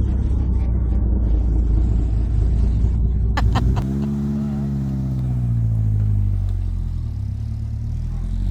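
Classic car engine running with a deep low rumble. About three seconds in there are a couple of sharp clicks, then the engine note drops and climbs again as it revs.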